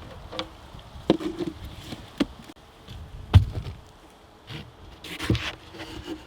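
Handling noises from a wooden beehive being worked: several separate knocks and clunks, the loudest about three and a half seconds in, with a short stretch of rustling and scraping near the end.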